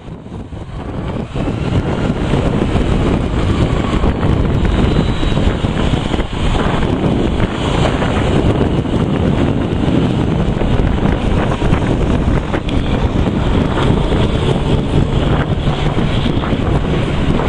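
Loud wind blowing over the microphone, fading in over the first couple of seconds and then rushing on steadily.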